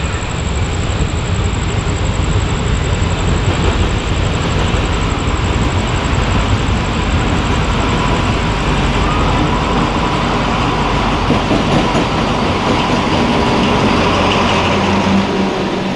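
Alsthom AD24C diesel-electric locomotive hauling a passenger train past at low speed, its engine drone and the rumble of wheels on the rails building as it draws alongside. A steady high whine joins about halfway in and is loudest as the locomotive passes.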